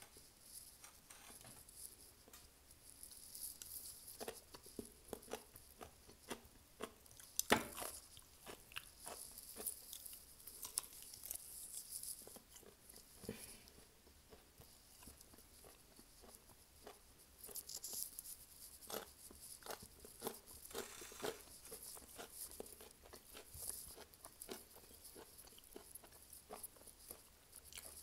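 Close-up chewing and biting of crispy fried chicken wings and crunchy atchara (pickled green papaya): an irregular run of crunches and crackles, with one sharper crunch about seven seconds in.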